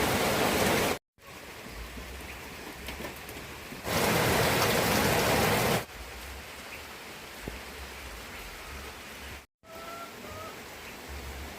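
Rain falling, in short clips that cut off abruptly: a heavy, louder downpour at the start and again from about four to six seconds in, lighter rain in between. A brief chirp about ten seconds in.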